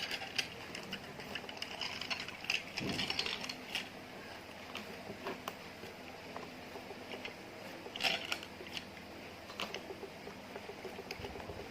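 Slime being squished and mixed by hand: irregular sticky clicks, pops and crackles, busiest about two to four seconds in, with another burst near eight seconds.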